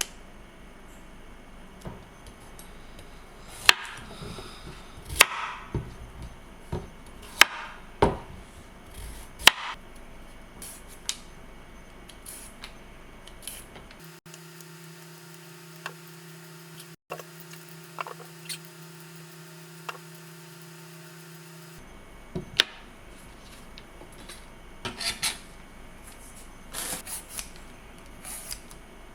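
Scattered sharp clicks and knocks of small objects being handled, with a steady low hum for several seconds in the middle.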